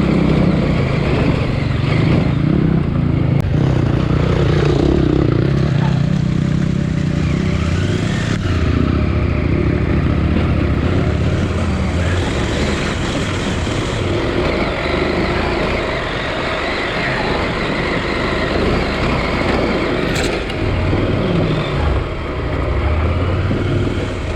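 KTM 890 Adventure R's parallel-twin engine running under way off-road, its revs rising and falling with the throttle.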